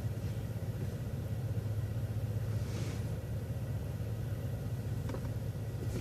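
City transit bus running steadily, a low, even engine and road drone.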